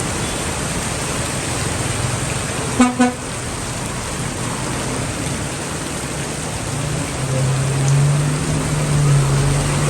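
Steady hiss of heavy rain and road traffic, with a vehicle horn giving two short toots about three seconds in. A low, steady engine drone from a passing vehicle sets in about seven seconds in.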